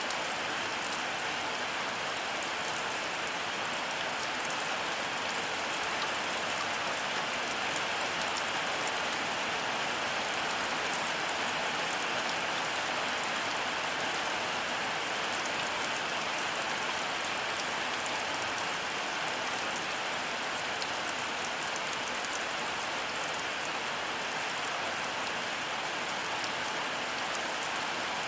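Heavy rain falling steadily: an even hiss with the fine patter of individual drops.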